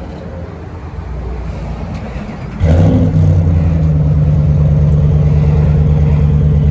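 Ram 1500 pickup's engine starting about two and a half seconds in, then idling steadily through a Flowmaster Super 44 aftermarket muffler with a loud, low exhaust rumble.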